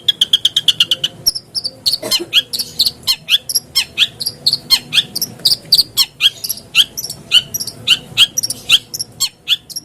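Long-tailed shrike (cendet) song: a fast rattle of repeated notes for about a second, then a long run of sharp, falling chirps, about four or five a second.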